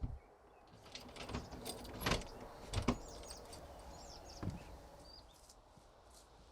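A few knocks amid rustling handling noise, with the loudest knocks about two and three seconds in.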